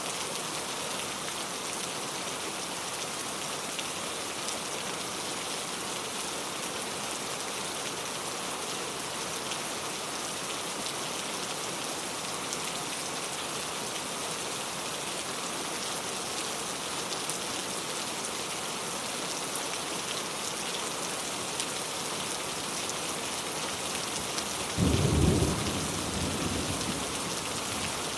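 Steady rain falling in an even hiss. Near the end a sudden clap of thunder breaks in and rumbles off over a couple of seconds.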